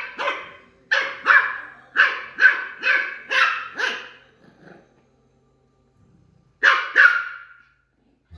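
Goldendoodle puppy barking repeatedly, about two sharp barks a second for roughly four seconds. After a pause there are two more barks near the end.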